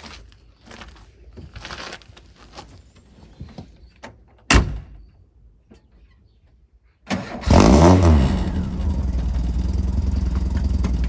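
A single sharp thump, then about two and a half seconds later the Ford Escort Mk3 XR3's 1.6-litre CVH four-cylinder cranks briefly and catches on a cold start. It flares up in revs once and settles into a steady idle.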